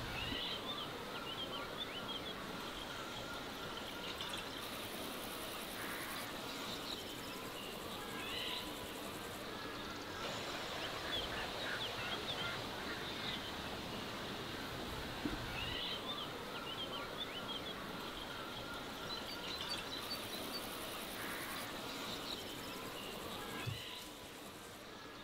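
Small birds chirping and twittering again and again over a steady outdoor background hiss.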